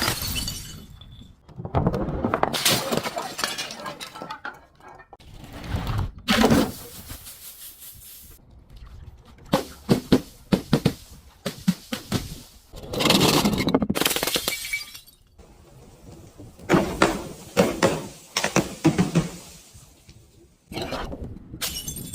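Glass bottles being crushed and shattered in repeated bouts of crunching and breaking glass, each a second or two long, with a quick run of sharp cracks about ten to twelve seconds in.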